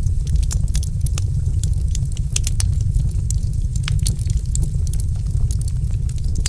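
Wood fire crackling, with many irregular sharp pops and snaps over a steady low rumble of the burning fire.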